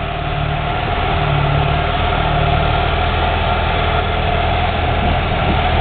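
Ford F-350 pickup's engine running steadily under throttle as the truck tries to climb an icy, snow-covered hill, its wheels spinning for traction. It grows a little louder about a second in.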